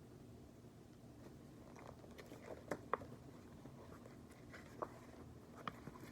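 Quiet room tone with a few soft clicks and paper rustles from a picture book being handled, starting about two seconds in.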